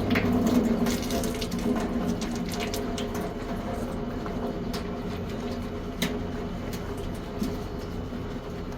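Running water splashing steadily during a dog's bath, with a low hum underneath and a few sharp clicks and knocks.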